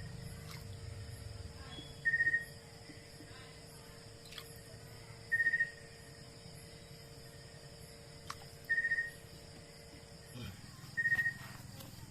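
A short, high, trilled call repeated every two to three seconds, over a faint steady hum that stops about ten seconds in.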